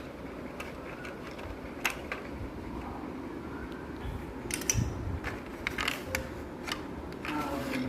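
Irregular clicks and knocks from handling a child's toy refrigerator and its packaging, with a cluster of sharper clicks around the middle.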